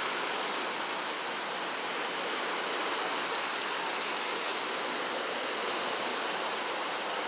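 Steady, even rush of expressway traffic.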